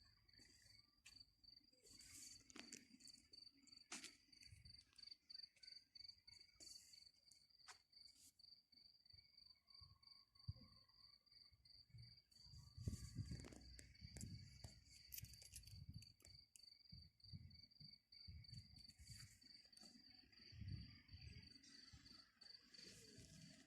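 A cricket singing a steady, fast, high-pitched pulsing trill, with scattered faint clicks and soft low thuds around it.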